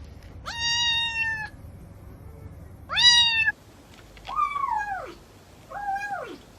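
Kitten meowing four times in high-pitched calls. The first is long and level, the second short, and the last two fall in pitch.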